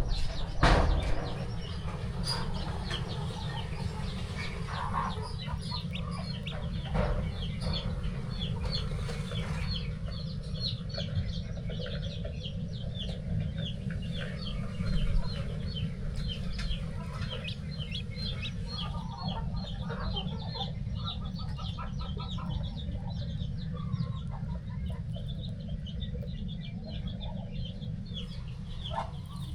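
Poultry calling: a dense run of short, high peeps from young birds, with hens clucking now and then, over a steady low rumble.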